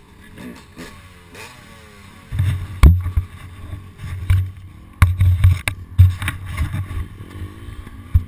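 A dirt bike crash striking the camera operator: heavy low thumps and several sharp knocks on the microphone as the camera is hit and tumbles, with a dirt bike engine revving faintly at first.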